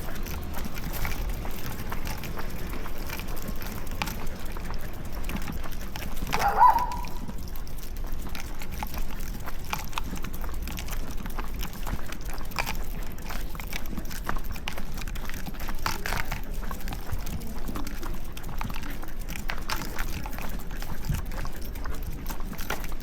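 Footsteps and the jostling of a body-worn camera on a walk: irregular small clicks and scuffs over a steady low rumble, with one brief, louder, high-pitched sound about six and a half seconds in.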